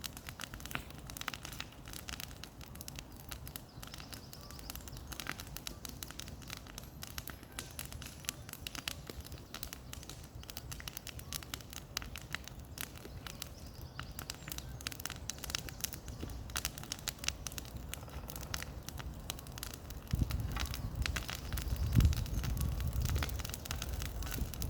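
Bonfire of cleared brush crackling and popping with many irregular sharp snaps. From about 20 seconds in a low rumble joins it, with a single loud thump about 22 seconds in.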